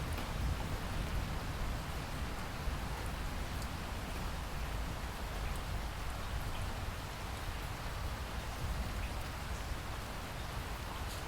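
Steady rainfall with a continuous hiss and a low rumble beneath it, with scattered individual drop ticks.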